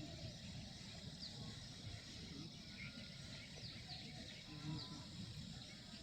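Faint outdoor ambience: a low steady rumble with a few short, high, falling chirps scattered through it.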